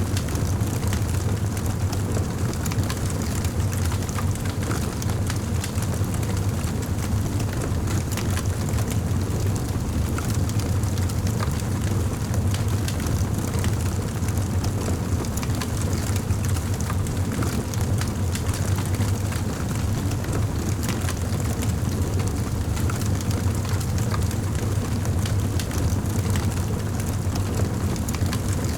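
Wood fire in a fireplace burning with a steady low rumble and scattered small crackles.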